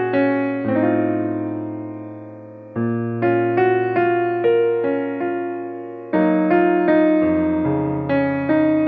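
Background piano music: a slow, gentle piece of struck chords and melody notes, each note fading after it is played.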